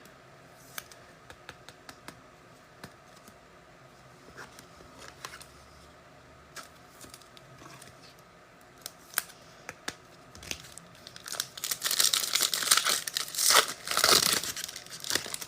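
Light scattered ticks and rustles, then about eleven seconds in, loud crinkling and tearing as a foil trading-card pack wrapper is ripped open, lasting a few seconds.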